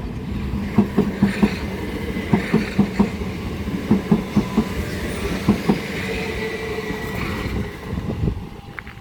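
Southeastern Class 377 Electrostar electric multiple unit running in along the platform, its wheels clacking over rail joints in repeated pairs over a steady rumble. A thin squeal rises in the second half, and the sound drops away near the end.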